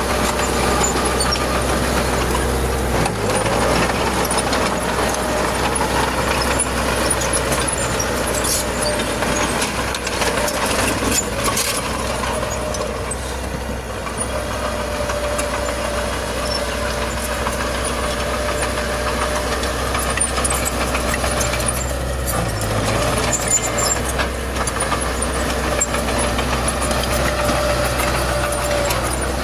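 Heavy diesel earthmoving machinery running steadily, with scattered clanks and rattles. A thin steady whine joins it about halfway through.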